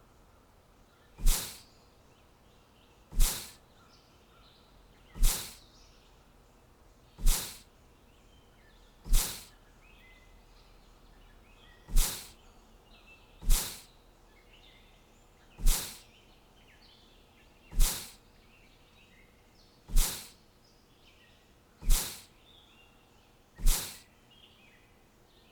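A short, sharp hissing burst repeats about every two seconds, each one fading quickly, over faint bird chirping.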